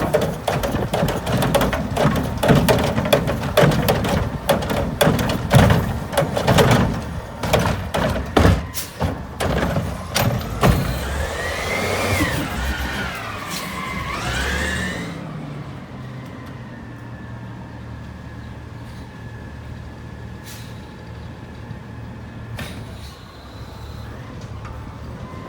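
Curotto-Can garbage truck arm dumping a cart of heavy yard waste: a dense clatter of knocks and tumbling debris for about ten seconds. Then comes a hydraulic whine that rises and falls, and after about fifteen seconds the truck's engine runs steadily and more quietly.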